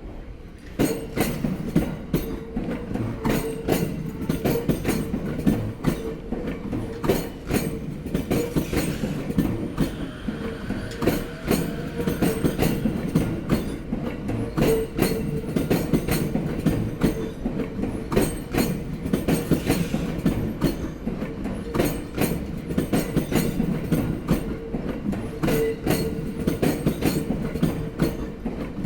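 A JR Sobu Line electric train runs over rail joints with a long, rapid run of loud clunks from the wheels striking the joints, over the train's steady rumble.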